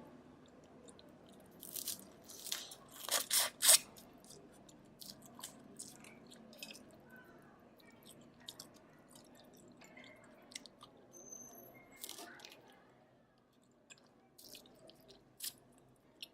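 Steamed river crab being eaten close to the microphone: a quick run of loud cracks of shell being bitten about two to four seconds in, then quieter chewing with scattered small clicks, and another crack about twelve seconds in.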